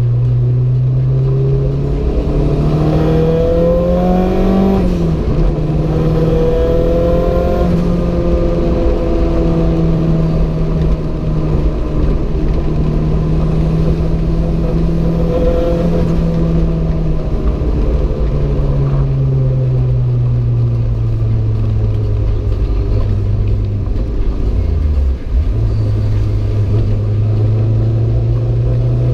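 Renault 5 GT Turbo's turbocharged four-cylinder engine pulling hard through the gears. The revs climb and drop sharply at a gear change about five seconds in, then hold steady. They fall away around eighteen seconds and dip briefly again near twenty-five seconds.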